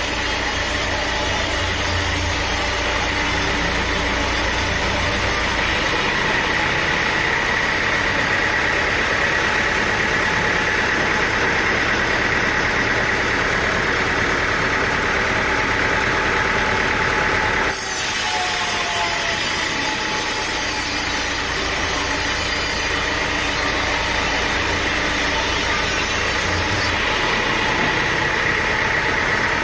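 Sawmill running, its engine and saw blade going steadily with a continuous high whine as it cuts timber. The sound changes abruptly about two-thirds of the way through, then carries on the same way.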